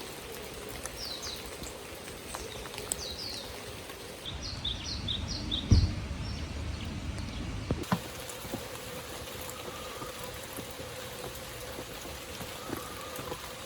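Rain falling steadily, with a bird giving runs of short, falling high chirps in the first few seconds and a few sharp clicks of drops.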